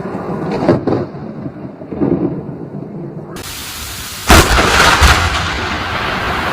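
Thunder rumbling, then a sudden loud crack of a close lightning strike about four seconds in, followed by rolling thunder over the hiss of rain.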